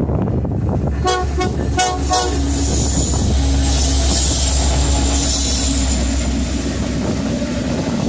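Train horn giving three short toots about a second in, over the steady low rumble of a passing train, with a steady hiss of rail noise building after.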